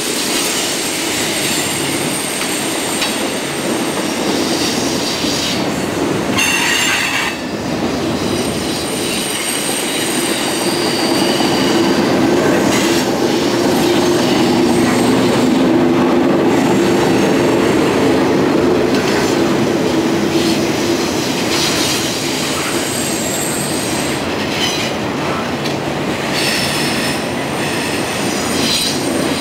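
Loaded coal train's cars rolling past on curved track: a steady rumble of steel wheels on rail, with high-pitched wheel squeal from the curve coming and going.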